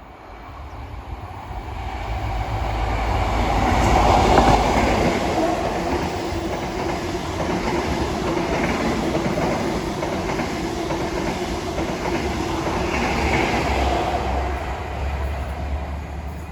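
A train of HST stock hauled by HST power cars passing through. The rumble builds to its loudest about four seconds in as the leading power car goes by, then a steady drone runs as the vehicles roll past, swells again near the end, and fades away.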